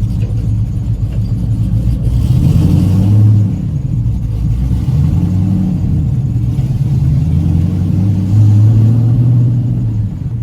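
Race Chevy C10 truck's engine accelerating under way, its revs climbing and falling back about three times. The engine is not yet fully warmed up and runs a little rough.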